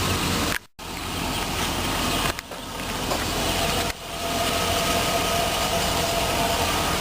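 A 2003 GMC Sierra 2500 HD's 6.0-litre Vortec V8 idling steadily. The sound cuts out for a moment about a second in and dips twice more.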